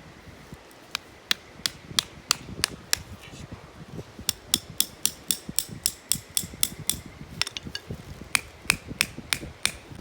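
Quick series of sharp hammer blows on metal, about three a second, in three runs with short pauses between them, each blow ringing briefly.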